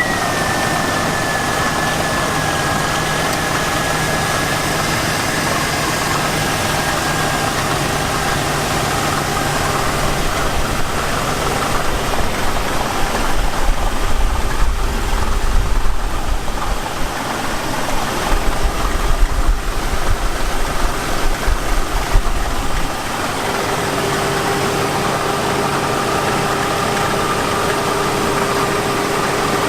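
Jeep Cherokee XJ 4.0-litre inline-six idling steadily with a knock, which the owner puts down to the worn-out bearing of the fan clutch pulley, not the engine itself. A high whine eases down in pitch at the start, and a louder, uneven low rumble runs through the middle.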